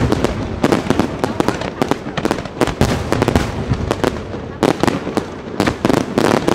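A fireworks display with shells going off in rapid, irregular succession, several sharp bangs and crackles a second.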